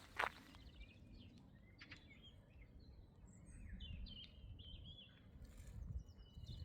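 Faint wild birds singing: a scatter of short chirps and quick trills from several birds, over a low background rumble.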